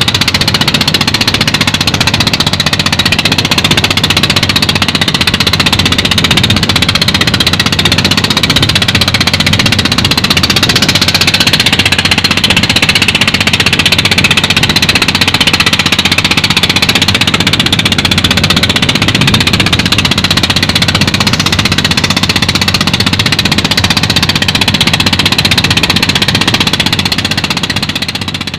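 Fishing boat's engine running steadily under a constant hiss, fading out near the end.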